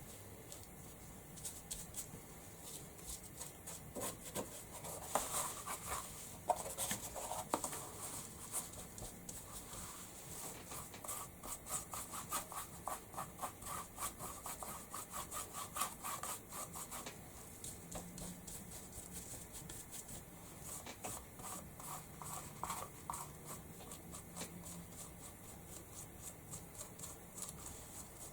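Paint being rubbed over a wooden chopping board: a long run of quick, short rubbing strokes, fairly faint.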